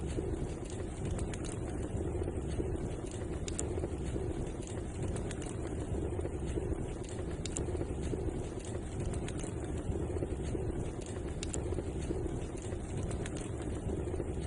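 Fireplace fire burning, with scattered sharp crackles and pops over a steady low rushing sound.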